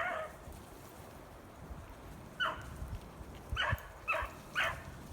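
Beagle hounds giving about five short barks, each falling in pitch, one at the start and a cluster from about halfway in, over wind rumbling on the microphone.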